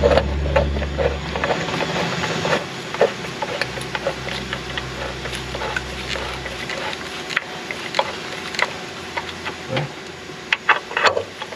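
Workshop handling sounds from hand work on an engine: irregular light clicks and taps of tools and parts. Under them runs a low steady hum that stops about seven seconds in.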